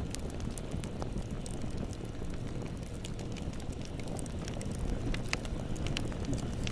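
Bonfire burning: a steady low rush of flames under scattered sharp crackles and pops of burning wood, a few louder pops coming about two-thirds of the way through.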